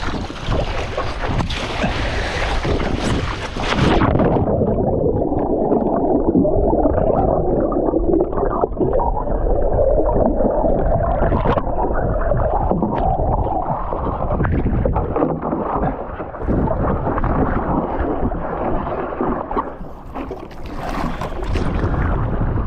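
Wind on the camera microphone and choppy sea water. About four seconds in, the sound turns dull and muffled, with the high end gone, as if the camera is awash or under water. Near the end it opens up again into wind noise.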